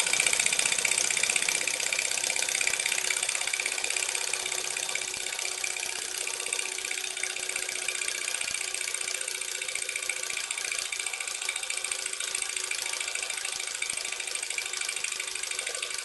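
Scratchbuilt model steam engine running fast under full steam, a steady rapid hissing of its exhaust beats as it drives a belt, easing off slightly over the first few seconds.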